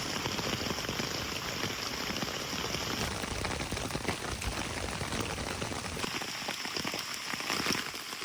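Hard rain falling on a tarp shelter: a steady, dense patter of drops.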